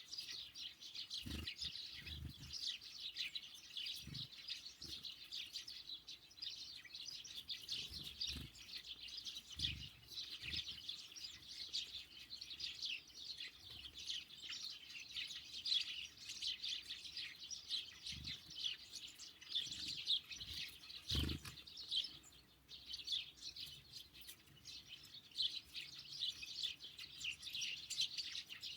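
A flock of small songbirds at a feeder, sparrows and great tits, chirping steadily in a dense, overlapping chatter of short high calls. A few soft thumps sound now and then, the loudest about 21 seconds in.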